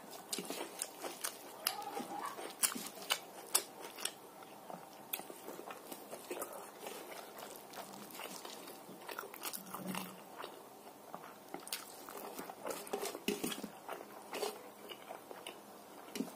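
A man chewing a mouthful of rice and sambar eaten by hand, with many irregular sharp clicks of mouth and hand sounds.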